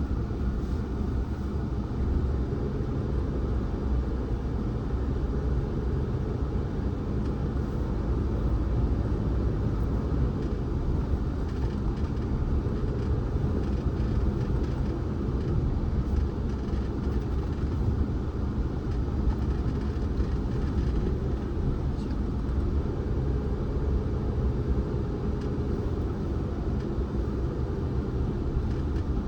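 Car driving on a road: a steady low rumble of road and engine noise that holds level throughout.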